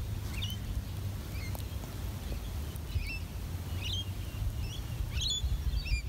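Short, faint high bird chirps scattered through, coming more often in the second half, over a steady low rumble of wind on the microphone.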